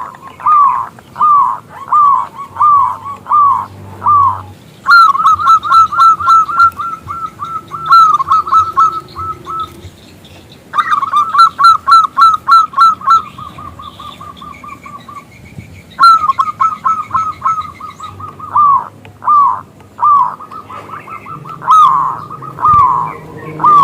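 Zebra dove (perkutut) cooing: a series of loud, short, bending notes, spaced out at first, then in fast runs of several notes a second with brief pauses between runs. The uploader bills it as a female calling to males.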